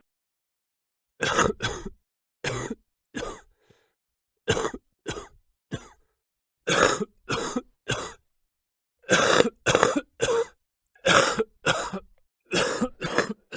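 A person coughing repeatedly, in short fits of two or three coughs each with brief pauses between them, starting about a second in.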